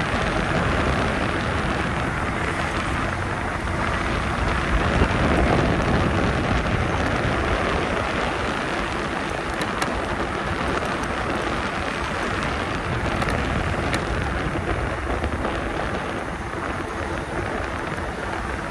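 Steady wind rush and tire noise from an e-bike on 20x4 fat tires riding along, a little louder about five seconds in.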